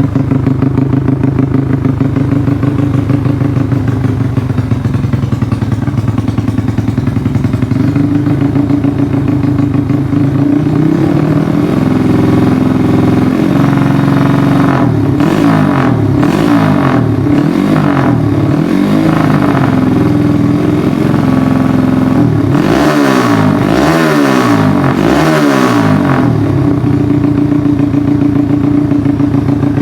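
Underbone motorcycle's 130 cc engine through an aftermarket DOS exhaust, idling steadily at first, then revved in a series of short blips from about twelve seconds in. Three harder revs come near the two-thirds mark before it settles back to idle.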